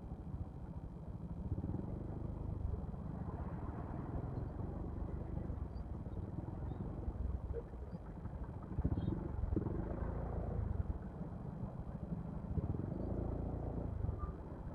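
Steady low rumble of road and engine noise while riding a Yamaha XMAX scooter in slow, jammed traffic, swelling a little just past the middle.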